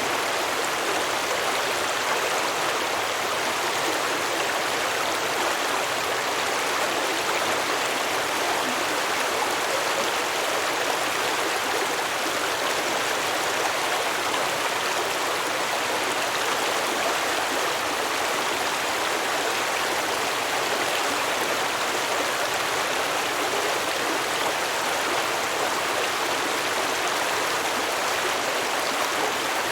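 Stream water flowing over rocks, a steady babbling rush.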